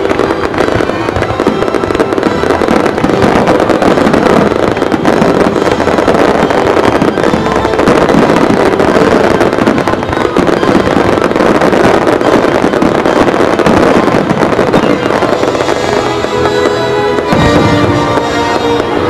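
Aerial fireworks bursting in a dense, continuous barrage, with music playing underneath. Near the end the bursts thin out and the music comes forward.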